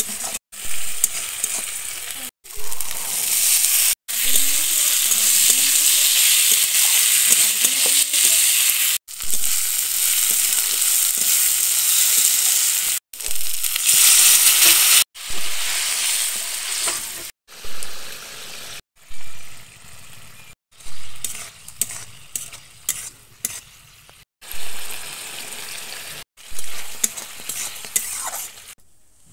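Onion and spices sizzling in hot oil in an aluminium kadai while being stirred, cut into short clips with abrupt breaks every few seconds. Near the middle, water poured into the hot pan gives the loudest hiss. Later the hiss dies down to a quieter simmer with light scrapes and clicks of the spatula.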